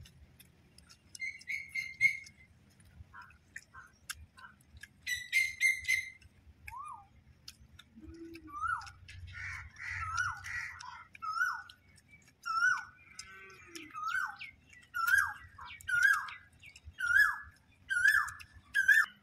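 A bird calling over and over: two harsh, buzzy bursts, then short downward-sliding notes repeated about once a second from roughly a third of the way in.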